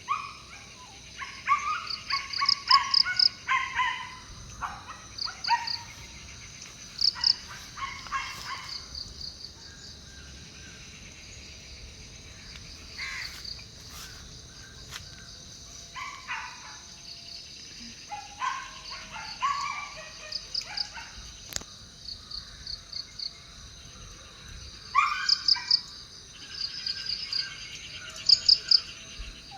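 Insects, crickets or similar, chirping steadily in rapid pulses, with birds calling in bursts over them.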